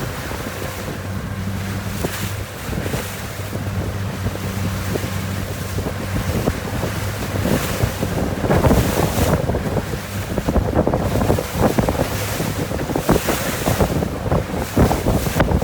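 Strong wind, about 21 knots, buffeting the microphone, with water rushing and splashing along a 470 racing dinghy's hull as it sails downwind. It comes in irregular gusts and surges, busier in the second half.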